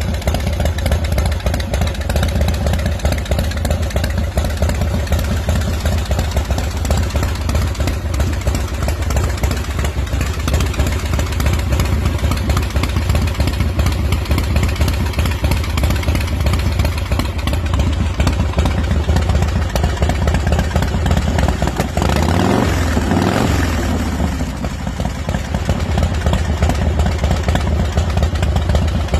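Custom motorcycle's S&S V-twin engine idling steadily, with one throttle blip a little past the twenty-second mark where the pitch rises and falls back.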